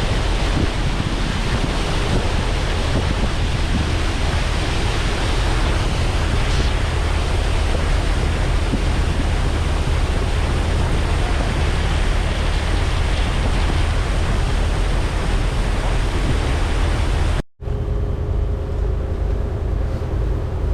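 Wind rushing over the microphone with a ferry's engine rumbling low underneath. After a sudden break near the end, the wind is gone, leaving a quieter, steady engine hum with a few level tones.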